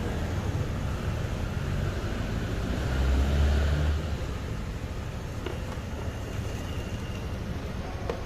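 Road traffic rumbling steadily, with a heavier vehicle passing and swelling louder about three seconds in.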